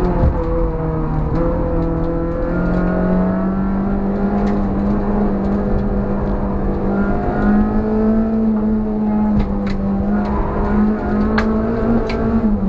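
Suzuki Swift's modified G13B four-cylinder engine heard from inside the stripped cabin, held at high revs through a slalom, its pitch stepping up and dipping a little with throttle, with a few sharp clicks. Right at the end the revs fall away steeply.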